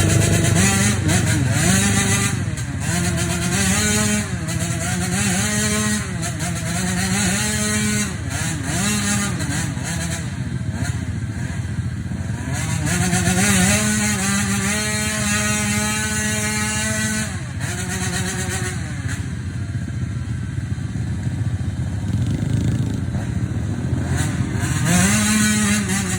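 An off-road vehicle's engine running under load. Its pitch climbs, holds and drops again repeatedly as it revs and shifts through the gears, over a steady hiss.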